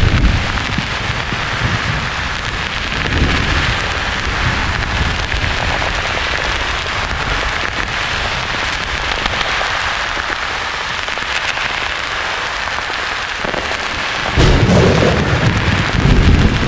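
Thunder rumbling over a steady rain-like white-noise hiss. A roll of thunder fades out at the start, and another rumbles in loudly about 14 seconds in and carries on to the end.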